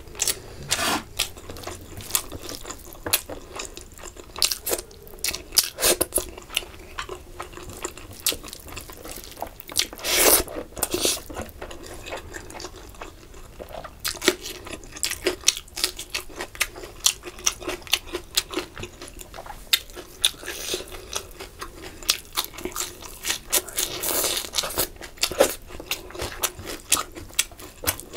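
Close-miked wet chewing and lip-smacking of rice and fish curry eaten by hand, with crunchy bites of a raw green chilli and fingers squishing the curried rice.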